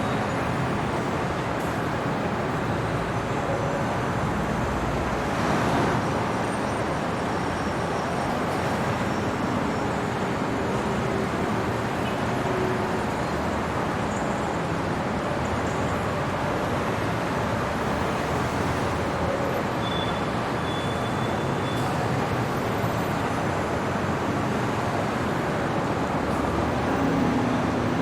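Steady city traffic noise at night: a continuous wash of road noise from passing vehicles, swelling briefly about a fifth of the way in and again near the end.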